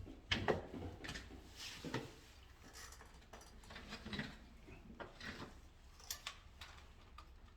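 Scattered clicks, taps and rustles of small parts and hand tools being handled during electrical wiring work. The loudest clicks come within the first second.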